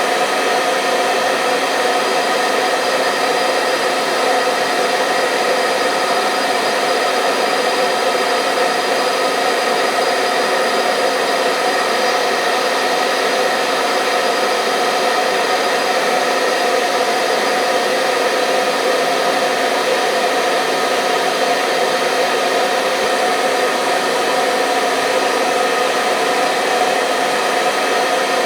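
Handheld hair dryer running steadily: a constant motor whine and rush of blown air with several steady hum tones, unchanging throughout.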